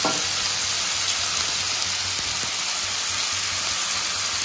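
Freshly added raw chicken pieces sizzling in hot oil in a frying pan with onion, tomato and green chilli: a steady hiss.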